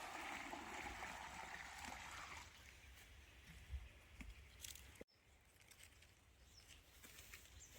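Faint water trickling and sloshing for about two and a half seconds, then near silence with a low rumble and a few light ticks.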